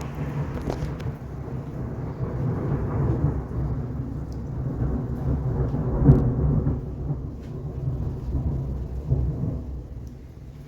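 Thunder rumbling after a lightning strike. It starts suddenly, swells and rolls, is loudest about six seconds in, then fades away near the end.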